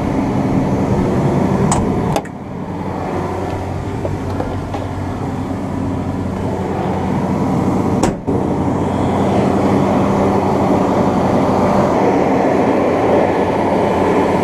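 John Deere 9500 combine running steadily while harvesting corn: a constant machine drone with a low, even hum. The sound drops out briefly twice, about two and eight seconds in.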